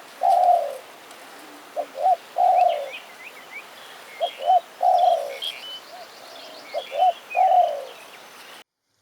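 Spotted dove cooing: four repeated phrases about two and a half seconds apart, each two short coos followed by a longer, falling coo. Small birds chirp faintly in the background.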